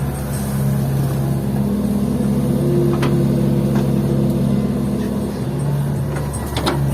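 Diesel engines of a Hitachi excavator and an Isuzu Elf dump truck running steadily during loading. A few sharp knocks come about halfway, and a louder clatter comes near the end.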